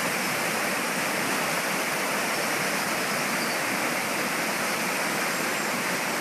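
Heavy rain pouring down in a steady, dense hiss with no letup.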